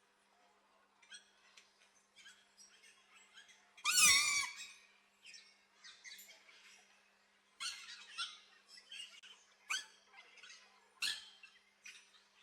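Aviary birds chirping, with many short high chirps and one much louder, wavering call about four seconds in. A couple of sharp clicks come near the end.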